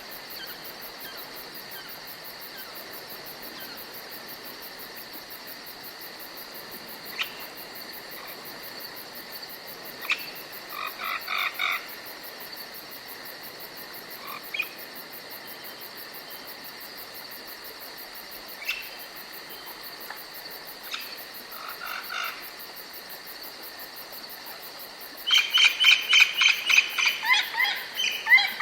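Woodland ambience: a steady high insect chirr, with scattered short bird calls and, near the end, a loud fast series of repeated bird calls.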